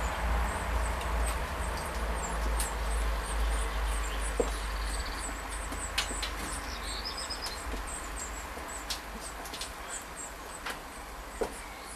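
Small birds chirping in quick high notes throughout, over a low rumble and a hiss that slowly fades, with a few sharp clicks.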